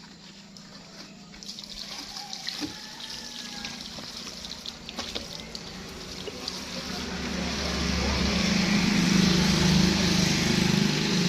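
Water running and splashing, swelling about seven seconds in into a loud steady spray over a low hum.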